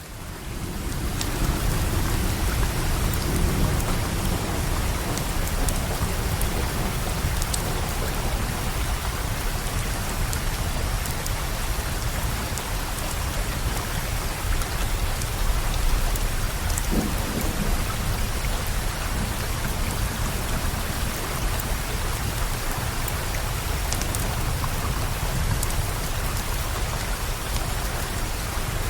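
Steady heavy rain with a deep rolling rumble of thunder underneath, fading in over the first two seconds, with scattered faint sharp pops over the rain.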